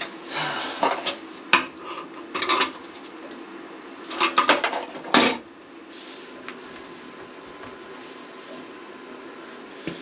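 Metal tools clinking and scraping against a water heater's fitting as it is worked loose, in several short bursts over the first five or so seconds, then only a low steady hum.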